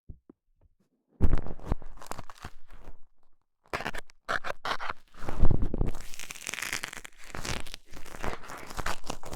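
Dental scaler scraping and poking in an ear: dense, close scratching and crackling that starts about a second in and goes on with brief pauses.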